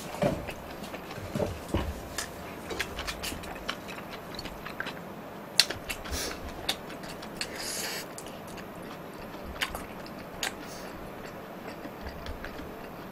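Close-miked chewing of a mouthful of jjajangmyeon noodles, with scattered small wet mouth clicks and smacks.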